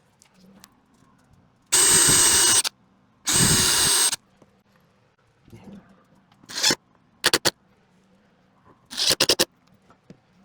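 A power tool run in two bursts of about a second each, starting and stopping abruptly with a steady high whine, followed by several shorter bursts.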